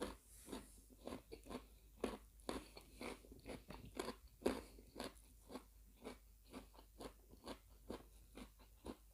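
A person chewing crunchy food close to the microphone: a run of soft, sharp crunches, about two or three a second.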